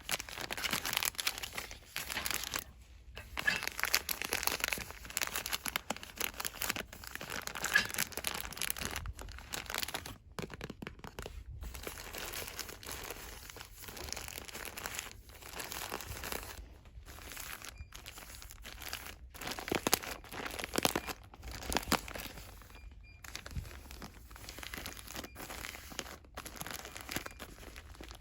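Hands rapidly rustling and crinkling cosmetics packaging, a dense crackle of quick clicks with brief breaks every few seconds.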